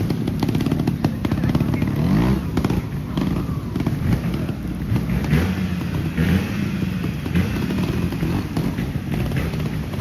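Trials motorcycle engine being blipped on and off the throttle, its pitch rising and falling in short bursts, with a rapid crackle of exhaust pops and clatter throughout.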